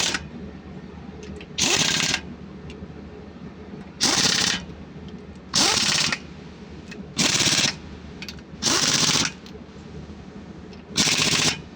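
Ratchet wrench running down rocker-gear fasteners on a KTA50 diesel engine, in six short bursts of rapid clicking about a second or two apart.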